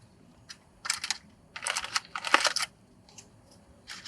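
Several short bursts of crinkling and rustling as a freshly cooked hot dish is handled and opened.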